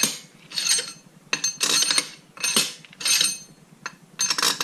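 Steel bolts clinking and rattling against each other and against metal engine parts as they are handled and tried in their holes: a quick run of short, sharp metallic clinks with a light ring.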